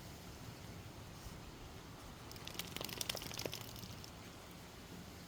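Steady faint rush of a forest stream, with a short run of crunching and crackling about halfway through.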